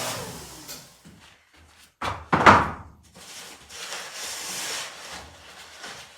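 A motor winding down with a falling pitch, then a single loud bang about two and a half seconds in, followed by a few seconds of rushing noise.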